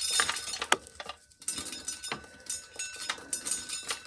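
Dried corn kernels being stripped off small ears by hand and clattering into a tub as a run of irregular sharp clicks and rattles. The run is densest in the first second.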